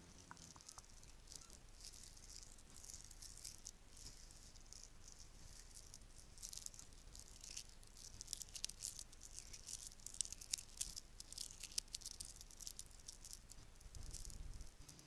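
Bracelets rattling and clinking as they are handled, a soft, busy stream of small clicks that grows denser about halfway through. A low handling rumble comes near the end.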